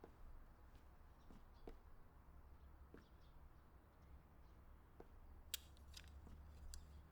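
Near silence: faint room tone with a low hum and a few soft scattered clicks and taps, the sharpest about five and a half seconds in.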